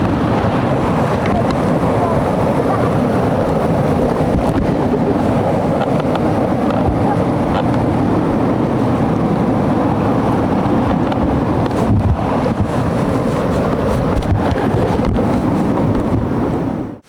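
A motor running steadily under wind noise on the microphone, cutting off abruptly near the end.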